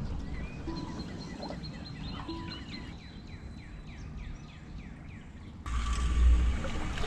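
Birds chirping outdoors, including a run of quick downward-sweeping notes, over a low background hum. About five and a half seconds in, a sudden louder rush of low rumble and hiss takes over.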